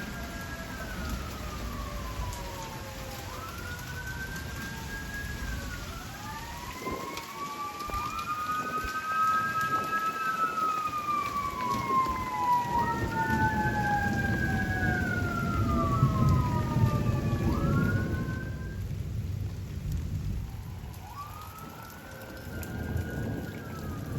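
Steady rain with rolling thunder that swells through the middle and fades near the end. Over it, several distant sirens wail, their slow rising and falling tones overlapping.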